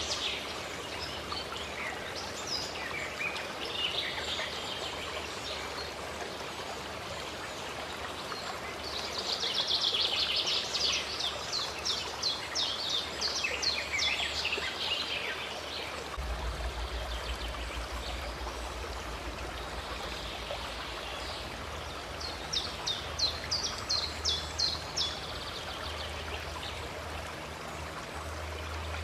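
Stream water running steadily, with birds singing over it in two spells of fast repeated high notes, the first about a third of the way in and the second near the end.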